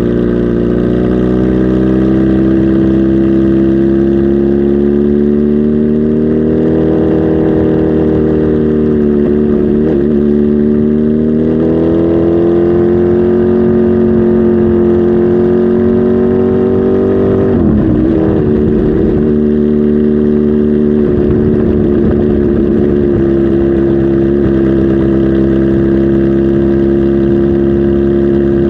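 Kawasaki Z H2 SE's supercharged inline-four engine running, its pitch climbing slowly, easing back and climbing again, with a brief dip and waver about eighteen seconds in before it settles to a steady note.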